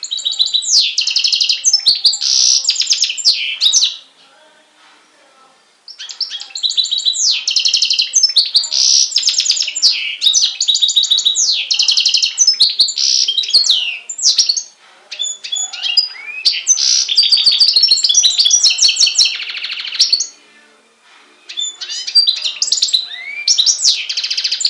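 European goldfinch × canary hybrid (a goldfinch mule) singing: long, loud bouts of fast trills, twitters and rising whistled notes, broken by short pauses of a second or two.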